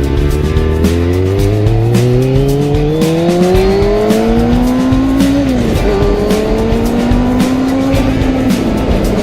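Motorcycle engine accelerating hard, its pitch climbing steadily and dropping at an upshift about five seconds in, then climbing again until another shift near the end.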